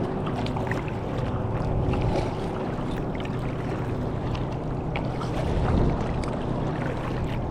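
Water lapping and splashing around a kayak hull, with small drips and ticks from the paddle. Wind buffets the microphone. A faint low hum, the motorboat whose wake the kayak just crossed, fades out a couple of seconds in.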